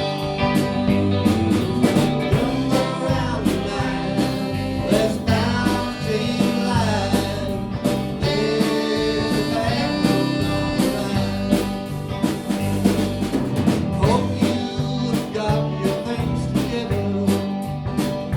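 Live band playing a blues number, with guitar over bass and drums.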